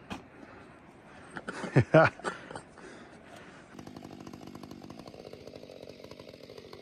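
A few sharp knocks about two seconds in, then a chainsaw running steadily from about halfway through.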